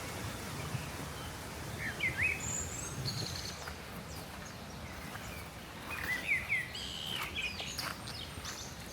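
Small birds chirping in short calls, in two brief clusters about two seconds and six seconds in, with a few higher thin whistles, over a steady low background rumble.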